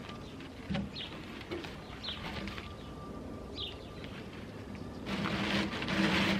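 A small bird gives short, high, downward-sliding chirps, about one every second or so. Near the end a louder rustling scrape lasts just over a second.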